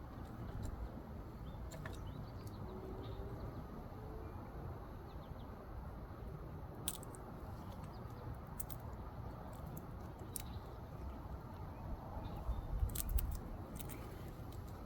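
A squirrel eating, with scattered small clicks and crunches of gnawing over steady low background noise; a short cluster of louder clicks comes about thirteen seconds in.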